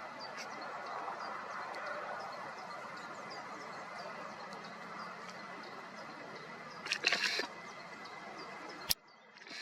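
Faint, short, high chirps from small birds, repeated every fraction of a second over a steady background hiss. A brief noisy burst comes about seven seconds in, and a sharp click near the end, after which the sound drops away.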